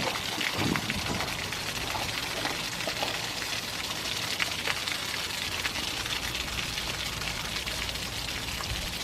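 Water pouring and splashing in a steady stream out of the drain opening of an Atwood RV water heater tank as it is flushed of sediment.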